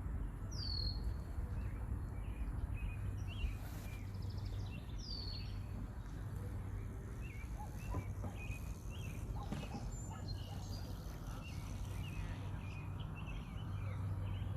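Birds calling outdoors: two clear down-slurred whistles about four seconds apart over many short scattered chirps, with a steady low rumble underneath.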